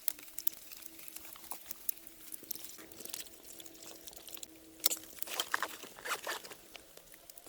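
Irregular patter of small sharp clicks and crackles, thickest about five to six and a half seconds in, over a faint steady hum.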